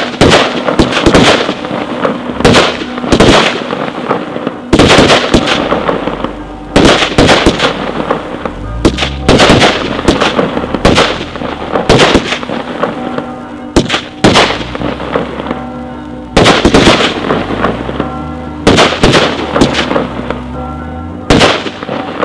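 Consumer firework batteries (cakes) firing: loud shots come in quick clusters as each shell launches, separated by short pauses, with crackling star bursts between the shots.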